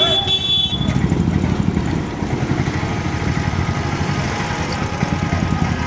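A motor vehicle engine idling with a rapid low throb, with a brief high-pitched beep at the very start.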